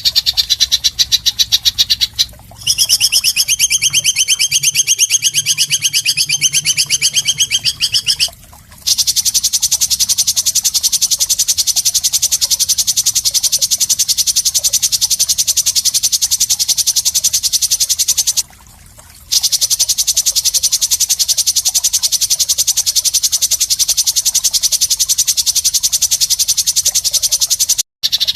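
A harsh, very fast, high-pitched trill from a masteran song-training recording of rough 'mbeset' fill. It runs in long unbroken stretches with three or four short breaks.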